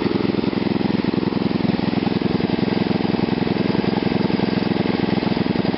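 Small gasoline engine fed through a homemade GEET plasma fuel reactor, running steadily at a low speed with an even, rapid firing pulse.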